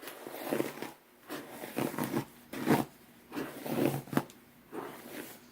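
A hairbrush being pulled through long hair in repeated strokes, about one a second, each a short swish.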